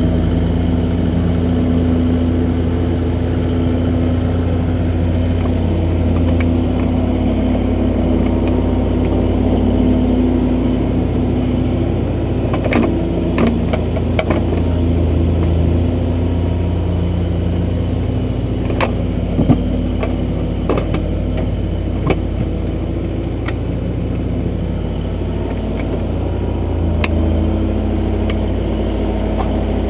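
Kubota backhoe's diesel engine running steadily under digging load, with a cluster of sharp knocks and clanks from the digging arm and bucket in the middle.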